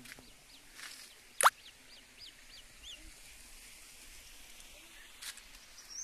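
A small bird gives a series of short, high chirps over a faint outdoor hush. A single sharp click about a second and a half in is the loudest sound.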